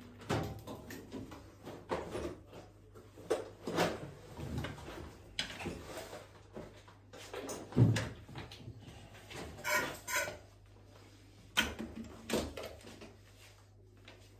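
Irregular knocks, clunks and short rattles of parts being handled while a washing machine is taken apart, the loudest clunk about eight seconds in.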